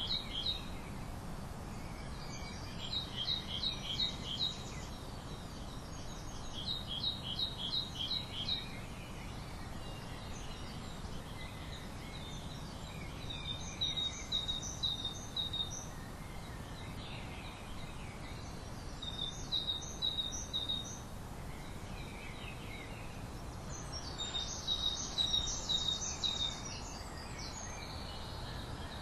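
A songbird singing a short phrase of five or six quick, high notes, repeated every four to five seconds over a steady low background noise.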